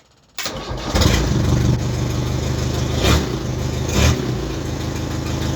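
Ford Transit 2.5-litre diesel engine starting after long storage: it cranks about half a second in, catches within a second and runs on steadily, with two brief louder surges about three and four seconds in.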